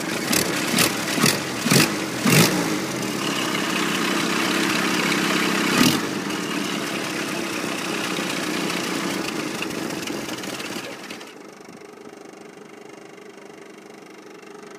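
1942 Ford GPW Jeep's four-cylinder flathead engine running after a cold start, on a little choke. Several sharp bangs come in the first couple of seconds and one more near six seconds. About eleven seconds in the sound drops much quieter but keeps running steadily.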